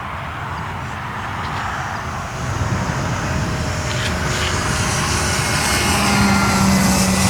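Radio-controlled Bücker Jungmeister biplane model in flight, its motor heard over a rough, noisy background and growing louder from about two and a half seconds in, with a steady tone near the end.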